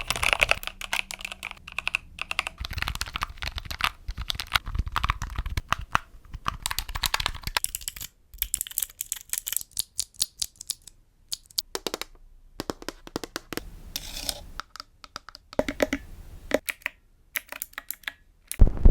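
Rapid, irregular tapping and clicking, like keys being typed on, broken by a few short pauses.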